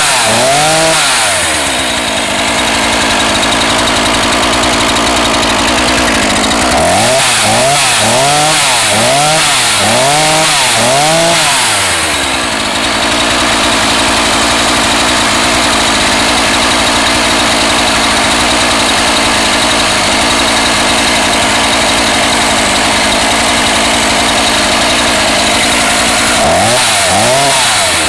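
NEO-TEC NH 841 two-stroke gas chainsaw running, its throttle blipped in quick rev-ups and drops: a couple at the start, about five in a row from about 7 s, and more near the end. Between the blips it settles back to a steady idle.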